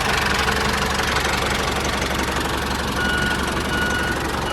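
A vehicle engine runs steadily. From about three seconds in, a short high beep repeats about every three quarters of a second.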